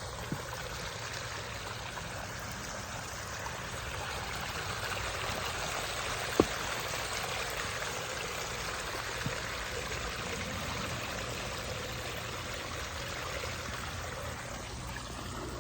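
Pondless waterfall running, its water splashing and trickling steadily, with one sharp click about six seconds in.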